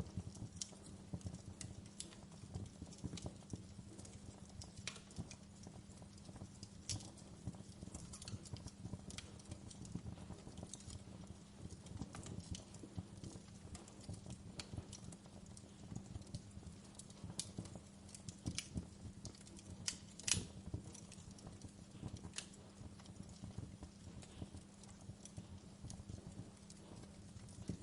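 Wood fire crackling in a fireplace: irregular sharp pops and snaps over a soft low rumble of burning, with one louder pop about twenty seconds in. A faint steady low hum runs underneath.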